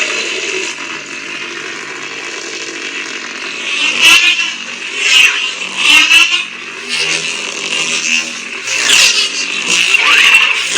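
Lightsaber sound font playing through the saber's speaker: a steady electric hum, then a run of swing whooshes that swell and fall back, about five swings in the second half.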